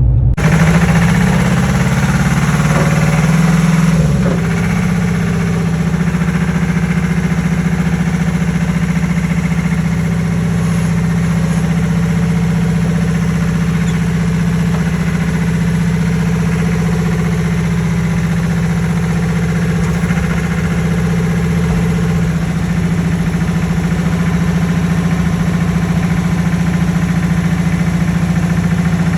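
Vehicle engine running at a steady speed, a steady low hum that is a little higher and less even for the first four seconds before it settles.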